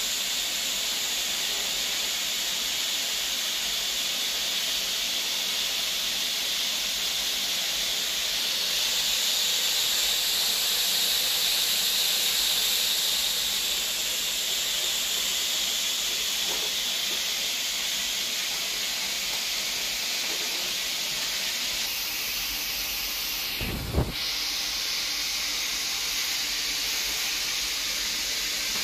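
Pieces of food frying in hot oil in an aluminium wok: a steady sizzle, somewhat louder around ten seconds in. There is a single short knock near the end.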